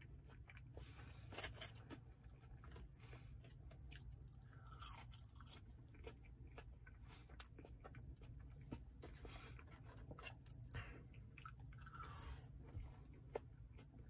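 Faint close-up chewing of a mouthful of chili cheese fries, mouth closed, with many small mouth clicks.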